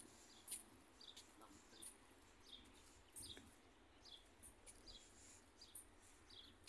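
Faint chirping of small birds: short high chirps, about two a second. A single sharp click sounds about three seconds in.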